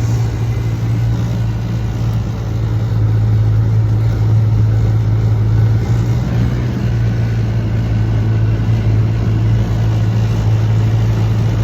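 Car driving steadily along the road, heard from inside the cabin: a steady low engine and road drone with tyre noise.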